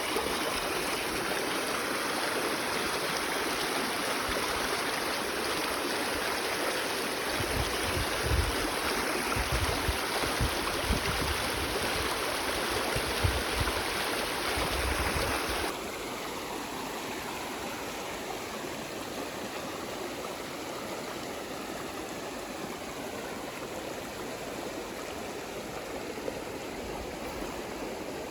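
Mountain stream running over rocks, a steady rushing of water. A little past halfway through it drops suddenly to a softer, quieter rush, and the first half has some low rumbles under it.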